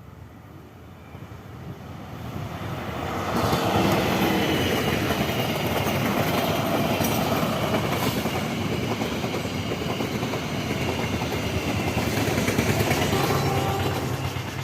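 A train passing close by on the track, its wheels clattering over the rails. It swells in over the first few seconds and fades near the end.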